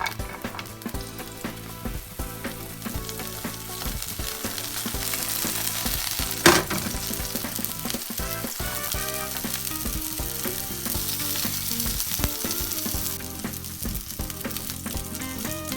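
Vegetables sizzling as they fry in a pan, with small clicks and scrapes of stirring and turning. There is a brief, loud burst of sound about six and a half seconds in.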